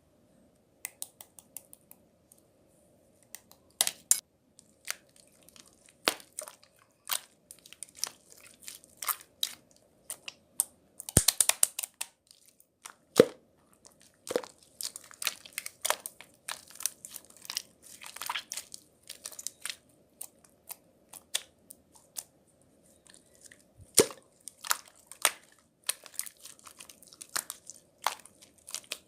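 Close-up handling noises: irregular crackles, crinkles and clicks, with a dense run of crackling about eleven seconds in and a few sharper clicks.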